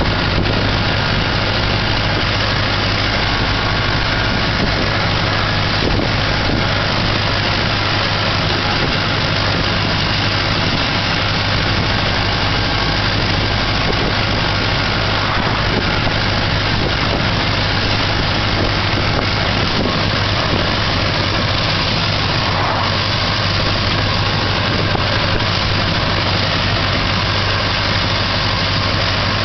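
1910 Ford Model T's four-cylinder engine running steadily as the car drives along at an even speed, heard from inside the car as a steady low hum under a constant rush of noise.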